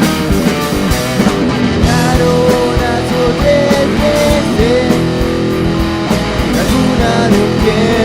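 Rock band playing an instrumental passage: guitars with a lead line of bending notes over bass and steady drum hits.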